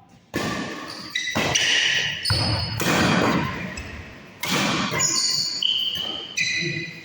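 Badminton rally in a sports hall: several sharp racket hits on the shuttlecock, each echoing off the hall, with short high squeaks of shoes on the court floor.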